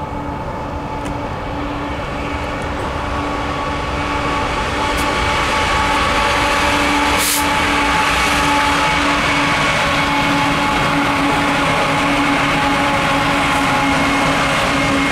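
BNSF diesel locomotives leading a westbound double-stack train approach and pass, their engine sound growing louder over the first few seconds and then holding steady, with a steady droning tone over a broad rumble.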